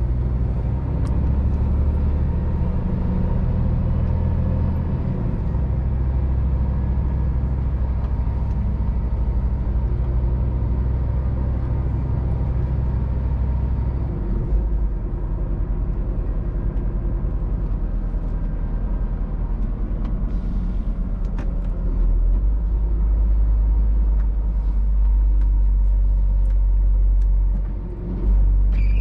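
Scania R500 truck engine running under way, a steady low rumble whose note steps up or down a few times, with a brief dip near the end.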